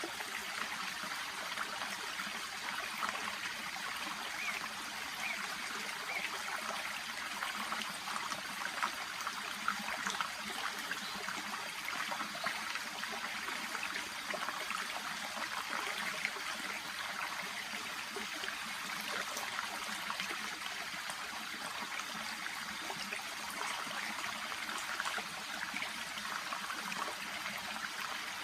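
Shallow brook babbling and trickling steadily, with small splashes and gurgles flickering through.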